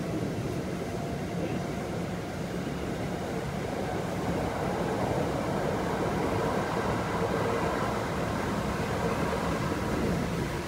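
Kintetsu 5800 series electric train running at speed, heard inside the passenger car: a steady rumble of wheels on rail and traction motors, growing slightly louder about four seconds in.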